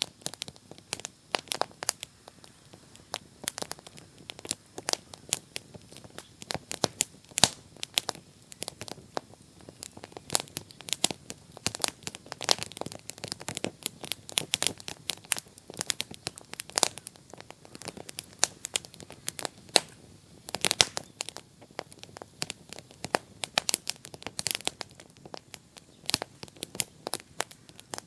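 Bonfire crackling, with a dense run of irregular sharp pops and snaps.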